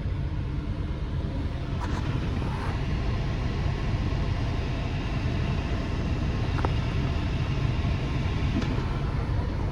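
Steady low rumble of an idling truck engine, with a couple of faint clicks.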